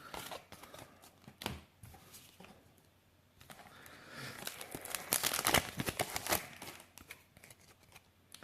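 Light handling rustles, then a few seconds of crinkling and tearing from about three and a half seconds in as a foil Yu-Gi-Oh booster pack wrapper is ripped open.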